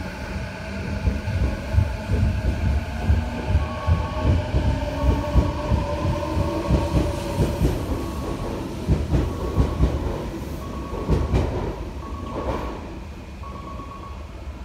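Electric commuter train pulling into a station platform: a low rumble with the clatter of wheels over rail joints, easing off near the end as it slows. A short high beep repeats about once a second through the second half.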